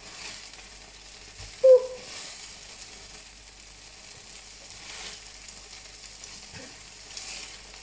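Batter frying in hot oil in a non-stick pan, sizzling steadily, while a spatula and a wooden spoon break it up and push it around. One brief, louder sound comes about two seconds in.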